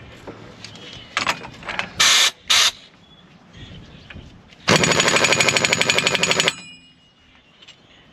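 Pneumatic shop tool on a truck's front suspension: two short bursts of air hiss, then nearly two seconds of rapid, loud hammering rattle.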